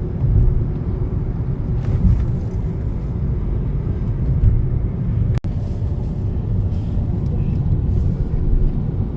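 Steady low rumble of a car's engine and tyres heard from inside the cabin while driving, with a momentary dropout of the sound about five and a half seconds in.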